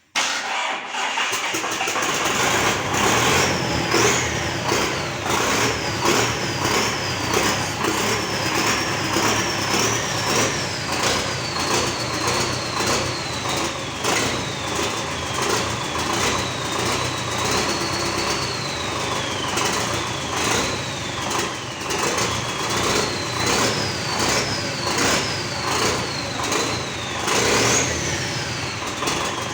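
The D-245 four-cylinder turbodiesel of a GAZ-3309 truck starts just after its repair. It fires suddenly and runs with a steady diesel clatter, revved up and down again and again, and a high whine rises and falls with the revs.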